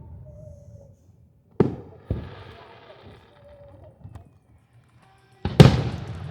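Aerial fireworks shells bursting. There is a sharp bang about one and a half seconds in, a second half a second later followed by crackling, and then the loudest bang near the end, followed by a spread of crackle.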